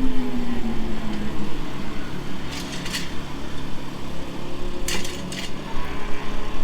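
Motorcycle engine note falling in pitch over the first second and a half over a steady low rumble, with two short clattering clicks around the middle.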